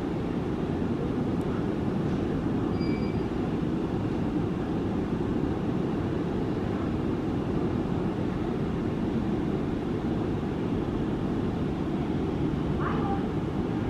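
Steady low mechanical rumble, even in level throughout, with a faint short tone about three seconds in and a brief faint squeak near the end.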